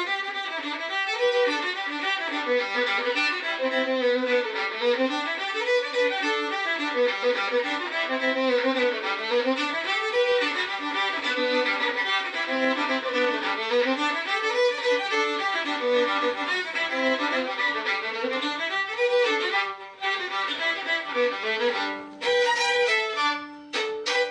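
Fiddle played solo, a fast tune of quick running notes climbing and falling, with two brief breaks near the end before it stops.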